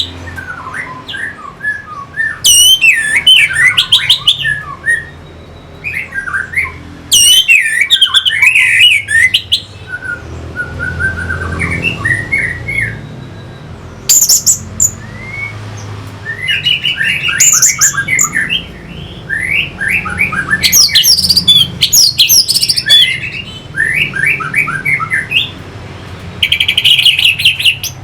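Orange-headed thrush (anis merah) singing: loud, varied phrases of rapid, high whistled notes, broken by short pauses.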